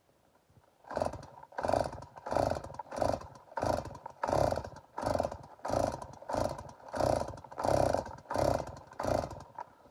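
Stihl MS 290 chainsaw's recoil starter cord yanked about a dozen times in quick, even succession, each pull a short rasping burst, without the engine catching and running.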